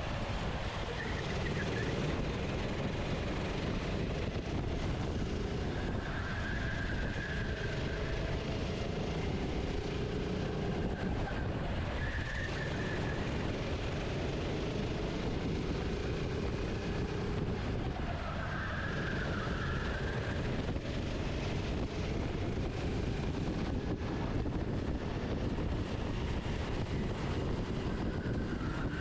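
Racing kart engine heard from onboard at racing speed, its note repeatedly climbing and dropping back as the driver accelerates and lifts through the corners.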